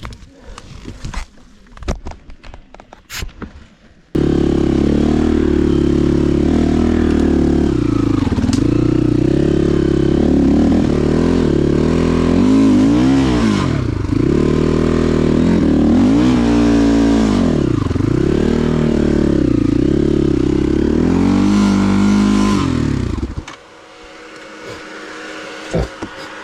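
Motorcycle engine running and being revved several times, its pitch swooping up and down. It starts abruptly about four seconds in and cuts off suddenly near the end. Before it come a few scattered clicks and knocks.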